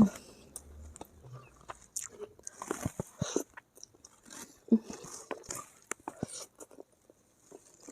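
Close-miked mouth sounds of a person eating nasi Padang: irregular bites and chewing with crisp crunches and wet smacks, uneven and spaced apart.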